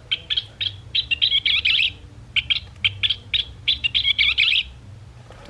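Recorded scissor-tailed flycatcher calls played from a Wild Republic plush bird's squeeze-activated sound box: quick, sharp chirps and chatter in two bursts of about two seconds each, over a faint electronic hum from the small speaker.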